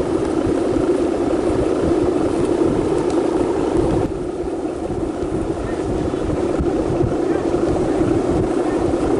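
Strong wind buffeting the microphone over a steady motor drone; the wind eases slightly about four seconds in.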